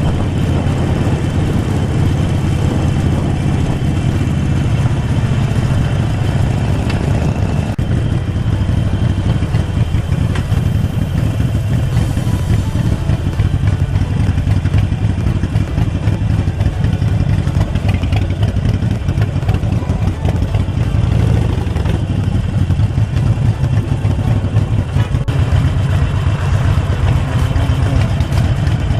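Harley-Davidson Forty-Eight Sportster's air-cooled V-twin engine running at fairly steady low revs with a throbbing pulse, heard from the rider's position.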